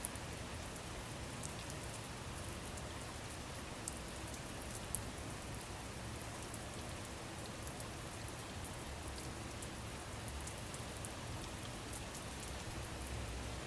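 Steady rain falling, an even hiss with scattered faint drop ticks and one slightly louder tick about five seconds in.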